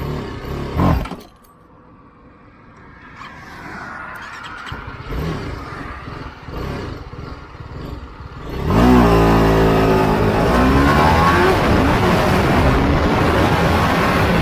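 TVS Apache RR310's single-cylinder engine ticking over with a few short throttle blips, then about nine seconds in it launches at full throttle, the engine note climbing in pitch and stepping up through the gears. Wind rushes on the microphone once the bike is moving.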